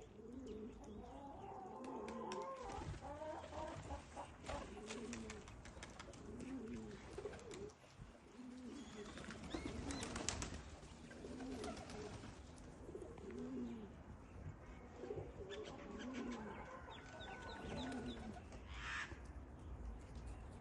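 Domestic pigeons cooing, one low arched coo after another, about once a second, with scattered light clicks and rustles among them.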